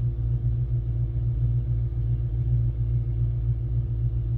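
Ford Mustang engine running steadily at a standstill, a continuous low rumble with a faint steady hum above it.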